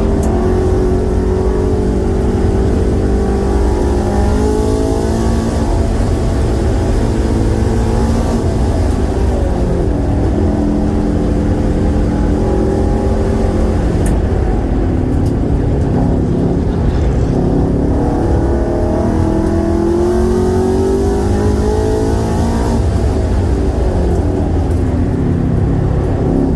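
Shelby GT350R's 5.2-litre flat-plane-crank V8 being driven hard: its pitch repeatedly climbs under acceleration and drops back on shifts and lifts.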